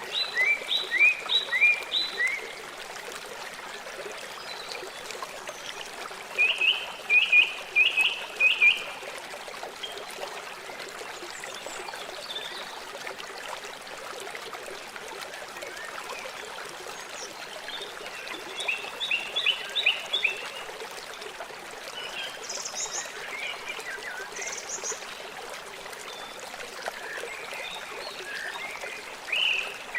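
River water flowing steadily. Runs of four or five quick, sharp chirps from a small animal cut in several times over the water, with a couple of higher notes midway.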